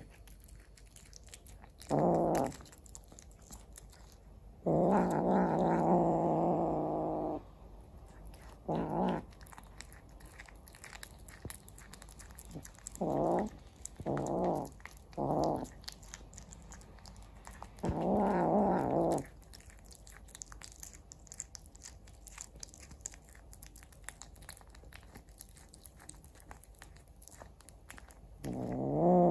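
A cat eating a chicken head, chewing and crunching between about eight low growls, the longest lasting about two and a half seconds.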